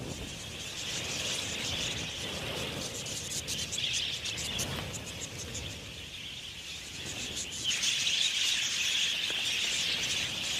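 A large flock of budgerigars chattering and chirping together in a dense, continuous twitter, growing louder near the end.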